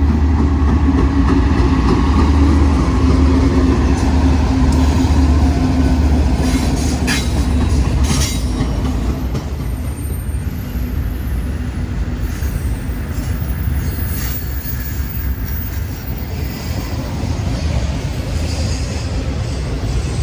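Freight train cars rolling past: a steady, loud rumble of wheels on rail, with a few sharp wheel clicks about seven to eight seconds in.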